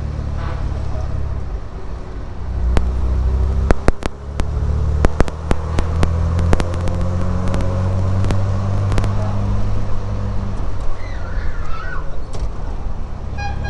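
A 1967 Triumph Vitesse 2 Litre's straight-six engine running steadily under way, heard from the driver's seat of the open car, with the engine note dropping and picking up again a few seconds in. Sharp clicks and knocks are scattered through the sound.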